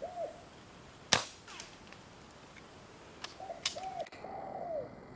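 Spotted dove cooing in short arched phrases, and about a second in a single sharp crack from an air rifle shot, the loudest sound. A fainter click comes just as the cooing resumes later.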